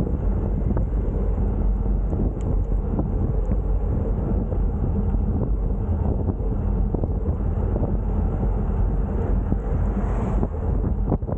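Wind buffeting the microphone, a steady low rumble with no distinct events.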